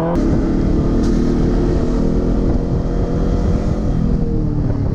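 Motorcycle engine running at a steady speed over a loud low rumble of road and wind noise, its pitch easing down slightly near the end.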